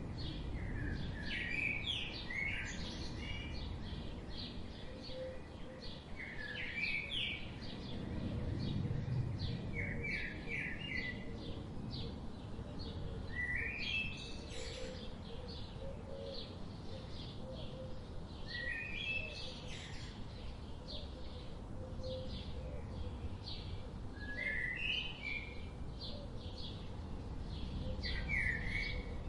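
Songbirds chirping: one bird repeats a short phrase of quick stepped notes every four to five seconds over fainter chirps from other birds, with a steady low background rumble.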